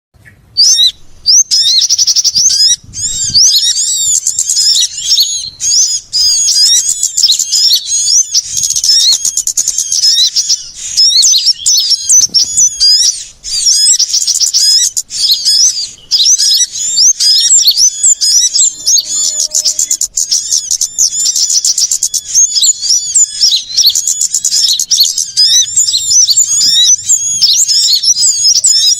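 A dense, noisy chorus of small songbirds: many rapid, high chirps and trills overlapping almost without a break. It is a bird-lure recording of mixed small-bird alarm-type calls meant to draw small birds in.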